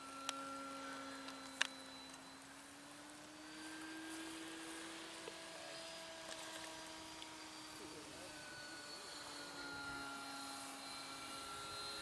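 Faint, steady drone of a radio-controlled model plane's motor and propeller in flight, its pitch rising a little midway and easing back down later. A couple of light clicks are heard over it.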